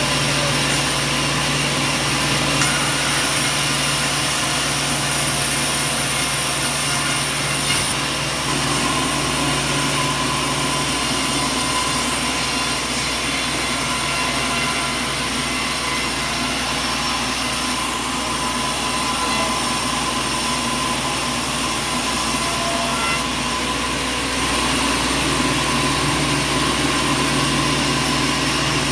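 Sawmill machinery running steadily: a dense mechanical din with several constant motor tones. The low hum drops back for a stretch in the middle, then returns.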